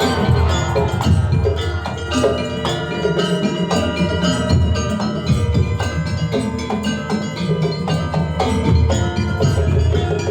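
Ensemble music built on struck percussion: ringing metal mallet instruments and wood-block strokes over a steady drum beat in a fast, even rhythm.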